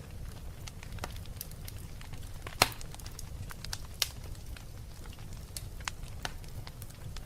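Wood fire crackling in a fireplace: irregular pops and snaps over a low steady rumble. One sharp pop, the loudest, comes about two and a half seconds in, and another about four seconds in.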